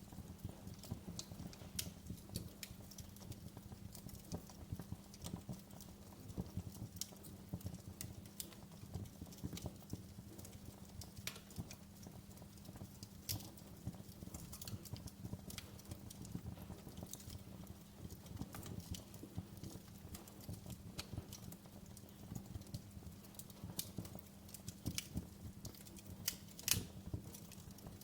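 Wood fire crackling in a fireplace: a dense, irregular run of sharp pops and snaps over a low steady hum, with one louder pop about a second before the end.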